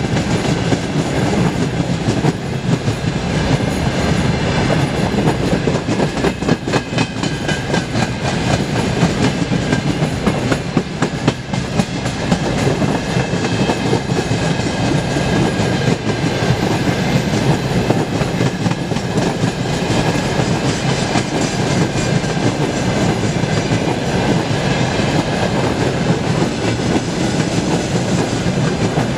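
Freight train's open-top gondola wagons rolling past close by: a steady rumble of wheels on rail with rapid clickety-clack as the wheelsets cross the rail joints, and a faint high squeal from the wheels.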